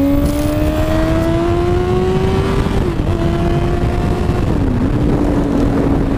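Yamaha R1 inline-four sport bike engine running under way, its pitch climbing slowly as it pulls, then dipping briefly twice before settling steady, over a steady rush of wind noise.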